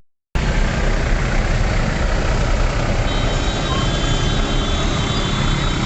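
Steady motor-vehicle engine and road noise with a low rumble, after a brief cut to silence at the very start.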